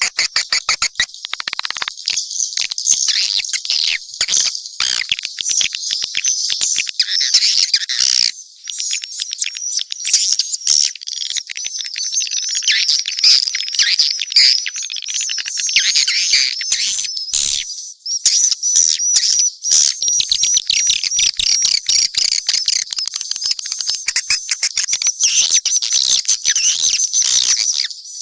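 Swiftlets twittering: a dense, unbroken stream of rapid high chirps and buzzy calls, a mixed recording of swiftlet calls of the kind played to lure swiftlets into a nesting house.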